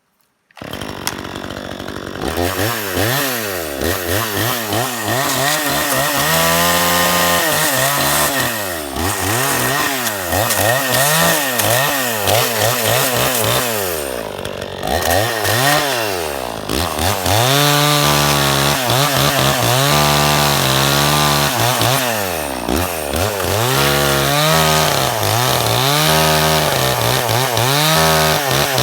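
Cheap Chinese-made 50cc-class two-stroke chainsaw running, starting abruptly about half a second in, its engine pitch rising and falling over and over as it is revved and pulled down under load while cutting wood.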